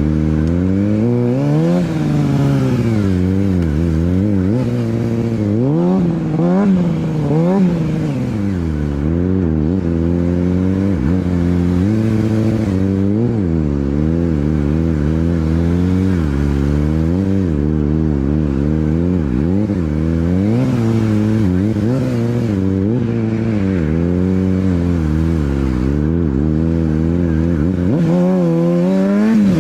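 Superbike engine revved over and over, its pitch rising and falling about every second as the throttle is worked, over a steady low engine drone that drops out near the end, followed by a final rising rev.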